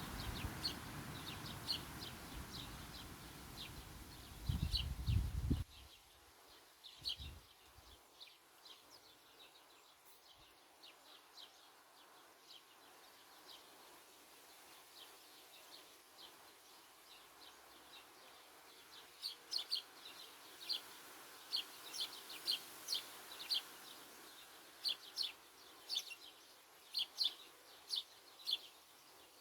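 Small songbirds chirping: short, high calls repeated irregularly, sparse at first and coming thick and fast over the last ten seconds. A louder low rumbling noise runs under the first few seconds and cuts off suddenly about six seconds in.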